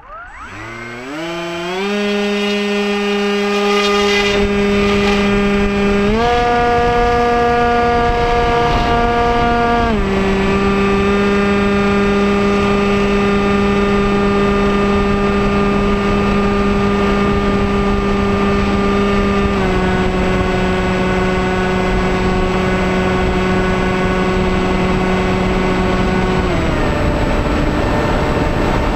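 Electric motor and propeller of a Bixler 2 RC model plane whining: it spools up with a rising pitch over the first two seconds, then holds a steady pitch that steps up about six seconds in and steps down around ten, twenty and twenty-seven seconds in as the throttle is changed. A rushing noise runs under it from about four seconds in.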